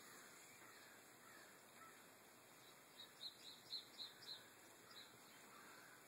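Near silence with a faint steady hiss, broken about three seconds in by a quick run of short, high bird chirps lasting just over a second.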